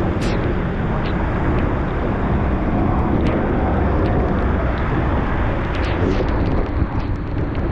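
Steady low rushing noise of a bicycle ride through heavy rain, with wind over the microphone and wet road noise, broken by scattered sharp ticks and splashes.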